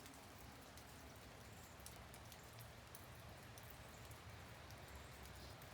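Very faint light rain: a steady soft hiss with scattered drops ticking. The shower is dying down to a sprinkle.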